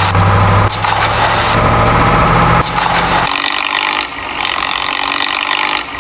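Heavy vehicle engine sound running with a steady low drone. About three seconds in, it changes to a different, higher-pitched machine sound.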